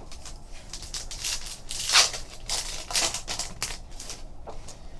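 Trading-card pack wrapper and cards being handled: a string of short rustles, crinkles and scrapes, loudest about two seconds in.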